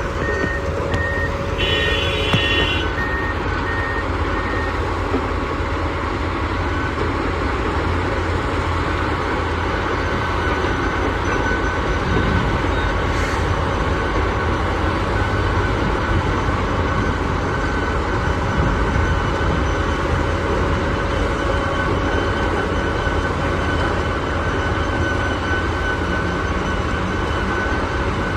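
Komatsu WA470 wheel loader's diesel engine running steadily under work, with a reversing alarm beeping in the first few seconds and then stopping.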